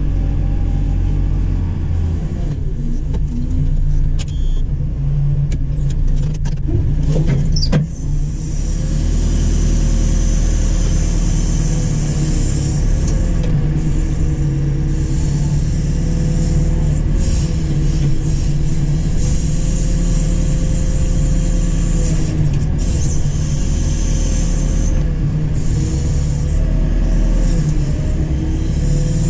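JCB 4CX backhoe loader's diesel engine running steadily under working load, with a tone that wavers up and down as the load changes. A few sharp knocks and clanks come in the first several seconds.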